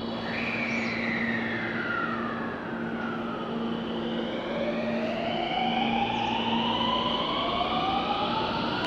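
Electric train's inverter traction motors whining. A falling whine over the first few seconds as a train slows, then from about four seconds in a steadily rising whine as a train accelerates, over a steady low hum.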